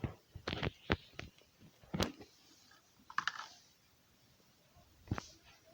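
A handful of short, sharp clicks and taps at uneven intervals, like light handling of a small object.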